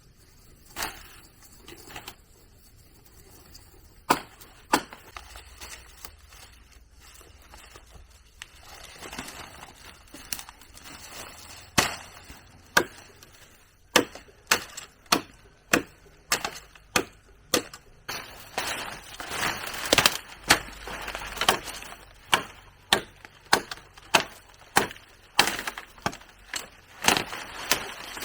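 Chopping strikes on wood: a few scattered blows at first, then a steady run of about two sharp strikes a second from about halfway through.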